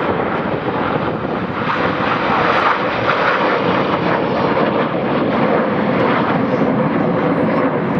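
Jet noise from a formation of BAE Hawk T.1 trainers, their Rolls-Royce Turbomeca Adour turbofans making a steady rushing sound that swells slightly a couple of seconds in.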